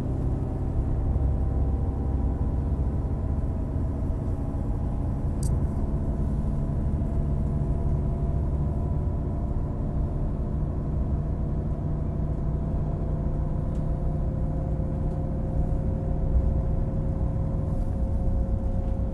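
DB Class 642 diesel multiple unit running, heard from inside the passenger compartment: a steady rumble with a constant engine and transmission drone. There is one sharp click about five seconds in.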